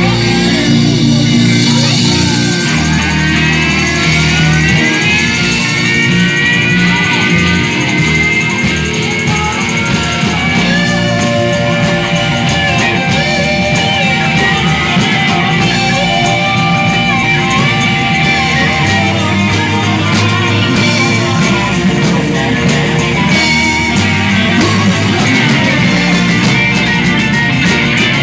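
Live rock band playing an instrumental passage, with a lead guitar line of sustained notes that bend upward and hold.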